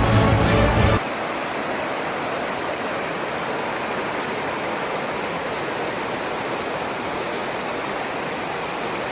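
Music cuts off about a second in, leaving a steady rushing of fast-flowing floodwater.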